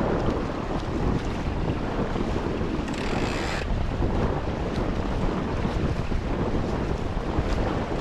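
Wind buffeting the action-camera microphone and water rushing past the hulls of a Tornado catamaran under sail, with a brief hiss about three seconds in.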